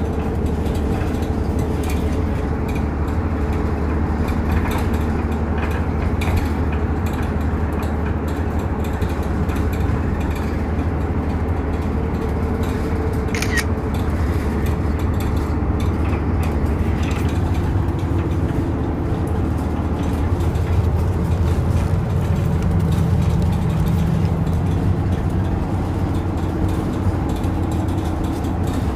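Inside a Nihon Kotsu route bus (car 385) under way: the diesel engine and running gear hum steadily, the engine note strengthening for a few seconds past the middle as it pulls harder. A brief sharp sound stands out about halfway through.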